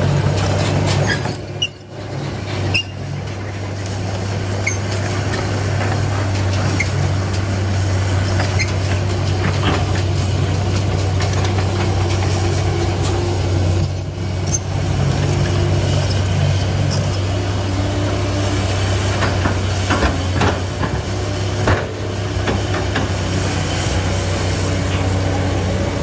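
Heavy vehicle's diesel engine running steadily with a constant low hum, briefly dipping about two seconds in and again near the middle.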